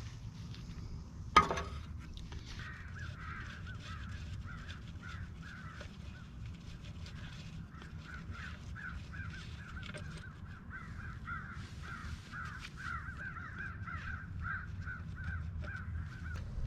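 One sharp knock about a second in. Then a bird calls over and over, short harsh calls about three a second for most of the time.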